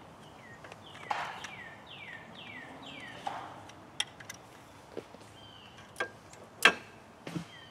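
A bird calling a run of short, falling whistled notes, about six in a row, with several sharp clicks and knocks scattered through the rest.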